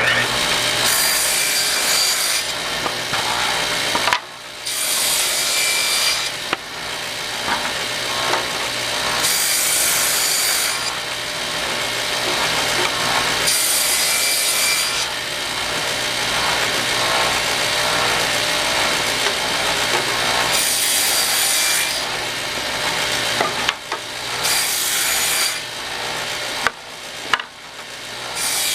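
Table saw running steadily with its blade raised about 3/8 inch, cutting shallow grooves in 3/4-inch pine: about seven separate passes, each a second or two of loud cutting noise, with the motor humming between them.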